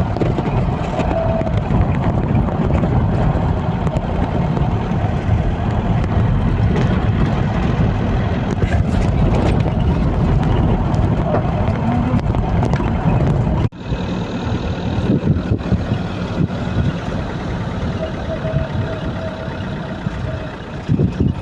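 Steady low rumble of road vehicles and traffic, with a sudden cut about 14 s in, after which the sound changes slightly.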